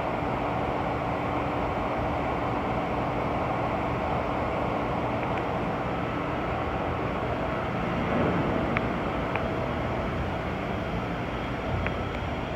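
Steady drone of running industrial machinery with a faint hum in it, and a few short clicks past the middle.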